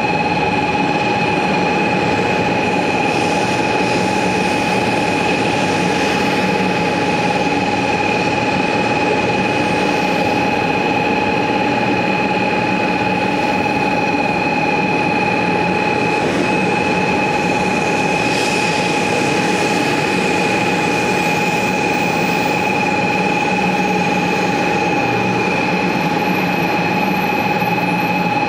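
500 series Shinkansen train moving along the platform track at close range: a steady running rumble with a high, steady whine held throughout.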